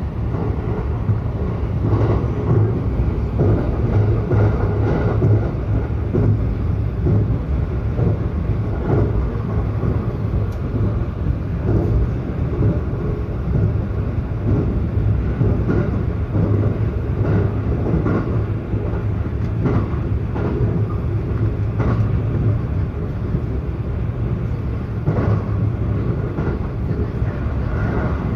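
Running noise heard from inside a local train carriage moving at speed: a steady low rumble of wheels on rail, with frequent small knocks and rattles.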